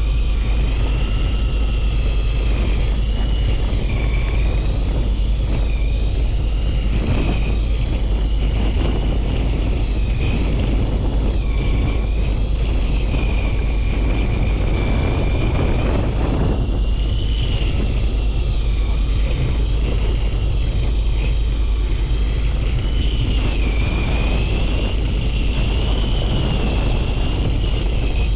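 Steady low engine rumble of a fishing boat, with a high whine that wavers slowly up and down in pitch.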